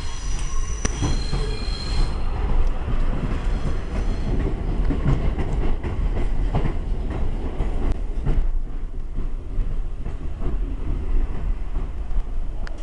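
Passenger train running over the tracks, heard from inside the carriage: a steady rumble of wheels on rail with scattered clicks from the rail joints and points. High wheel squeal during the first couple of seconds, which then dies away.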